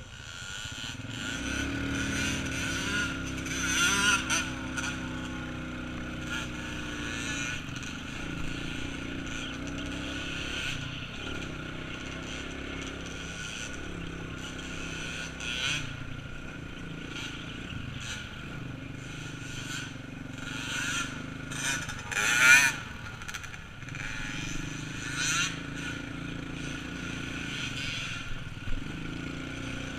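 Small off-road motorcycle or ATV engine running, its pitch rising and falling. The engine swells louder about four seconds in and again around twenty-two seconds, the loudest moment.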